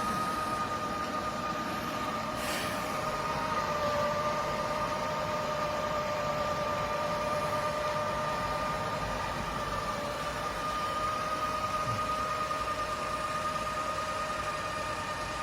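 eufy Omni C20 robot vacuum running, a steady motor whine with a couple of held tones over the hum of its suction fan.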